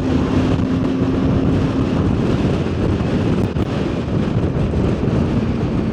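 Strong wind rushing over the microphone while riding a motorcycle, with the bike's engine running steadily underneath; a steady engine hum stands out in the first two seconds.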